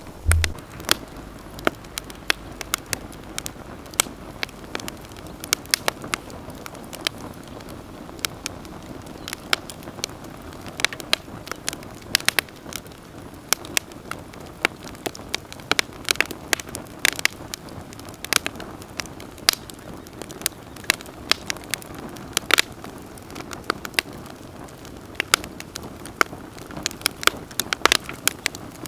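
Campfire crackling: irregular sharp pops and snaps over a soft steady hiss of burning.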